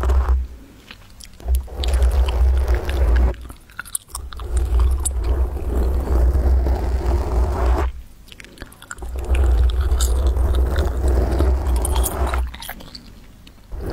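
Fingers gripping and scratching directly on a microphone: crackly scraping over a heavy low handling rumble, in several stretches of a few seconds with short quieter pauses between.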